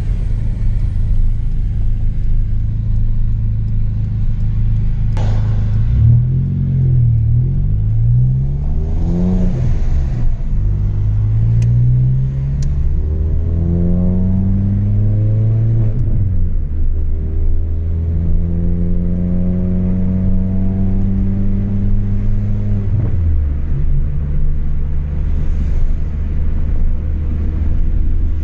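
Chevrolet Astra 2.0's four-cylinder engine through a straight-through exhaust with no muffler, heard from on board. It runs at a low steady note, then revs up in rising sweeps, with two long pulls each ending in a sudden drop in pitch as it shifts up, and settles into a steady cruise near the end.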